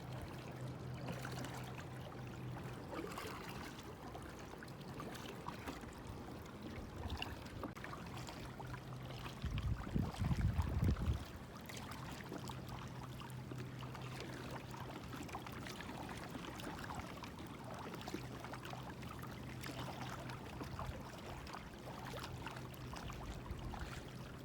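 Water splashing and trickling around a small paddled boat on a river, over a steady low hum. A louder low rumble about ten seconds in lasts over a second.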